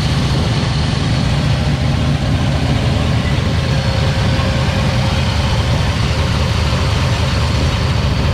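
Ford XW Falcon GT's 351 V8 idling steadily, a deep, even exhaust note with no revving.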